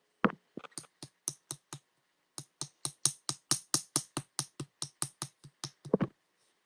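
Pink jelly slime being pressed and worked by hand, making a run of crisp clicking pops about four to five a second. There is a short pause about two seconds in, and a fuller, louder pop near the end.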